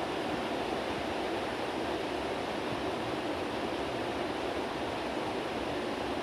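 Heavy rain falling: a steady, even rush of noise with no breaks.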